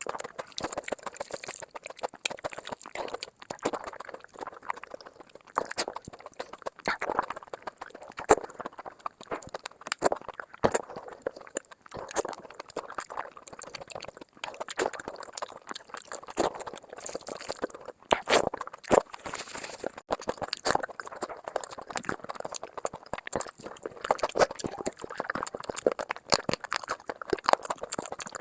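Close-miked chewing and wet mouth sounds of a person eating, with many irregular sharp lip smacks and clicks.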